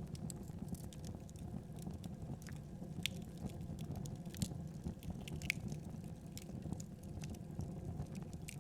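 Wood fire in a fireplace crackling: irregular sharp pops and snaps over a low steady rumble of the flames, a few pops louder than the rest.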